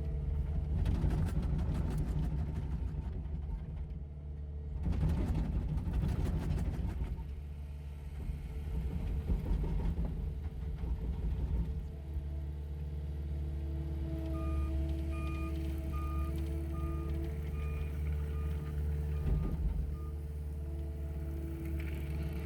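Heavy road-construction machinery for milling and asphalt paving, with diesel engines running steadily, played back at double speed. Rough, louder grinding noise comes and goes twice in the first part, and past the middle a reversing alarm beeps about eight times in an even row.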